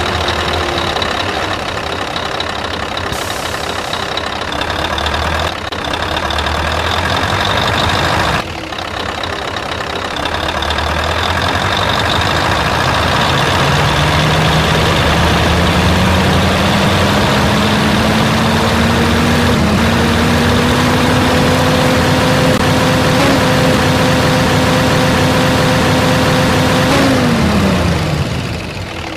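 Truck engine running. Its pitch climbs smoothly for several seconds as it speeds up, holds steady, then falls away near the end.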